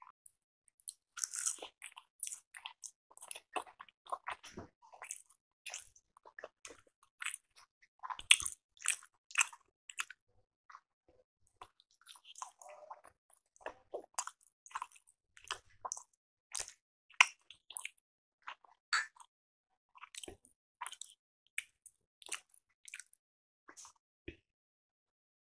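A person chewing appe (paniyaram), soft rice-batter dumplings dipped in tomato chutney: a steady, irregular run of short mouth clicks and chewing sounds.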